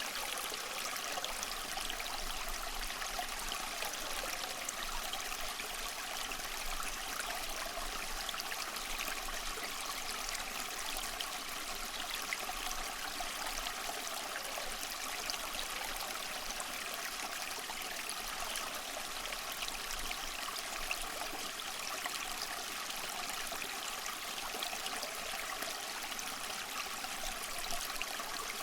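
Water trickling and splashing steadily from a small homemade tabletop fountain fed by a submersible pump.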